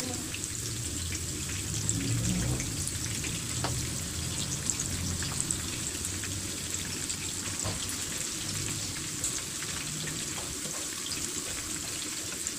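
Breadcrumb-coated shrimp frying in hot oil in a pan: a steady sizzle with many small crackling pops.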